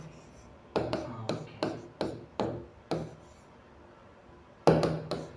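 Writing strokes as a formula is written out: about seven short scratching taps over three seconds, then a pause.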